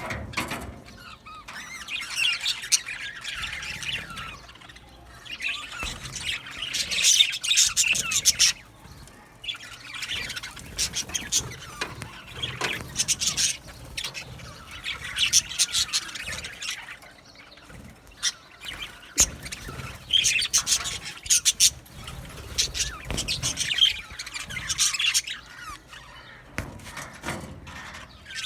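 Budgerigars chattering and chirping together, busy overlapping warbles and squawks coming in bursts with short lulls between.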